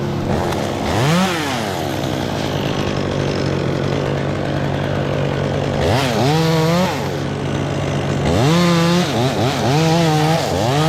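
Two-stroke chainsaw revved up from idle several times in short bursts: once about a second in, again around six seconds, then a longer rev followed by quick throttle blips near the end. A steady engine drone runs underneath.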